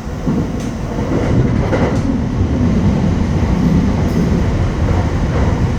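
Kintetsu 9820 series electric train running along the track, heard from inside the rear of the train: a steady low rumble of wheels on rail with a few clicks from rail joints.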